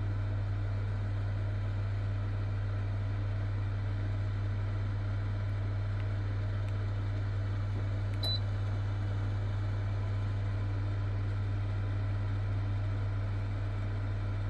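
2 kW wall-mounted electric fan heater running steadily: an even whir of air with a strong low hum. A single brief click about eight seconds in.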